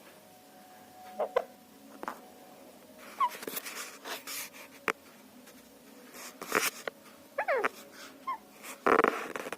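A pet bird making strange short squeaks and whining calls at irregular intervals, a few of them sliding in pitch, with a louder, noisier call near the end.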